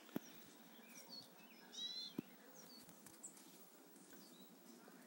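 Faint bird chirps and one brighter call about two seconds in, over a low steady background hiss. Two sharp clicks, one just after the start and one a little past two seconds in.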